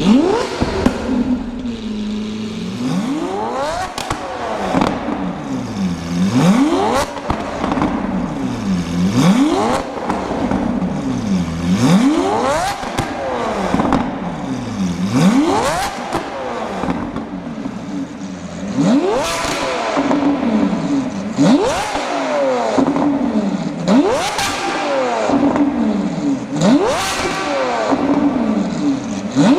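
Lamborghini Aventador V12 through a Kreissieg valvetronic exhaust, blipped again and again, about once every two to three seconds. Each rev rises sharply in pitch and falls back to idle, with pops and crackles from the exhaust on the overrun.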